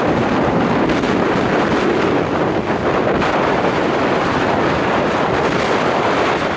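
Jet airliner's engines at takeoff: a loud, steady roar, mixed with wind buffeting the microphone.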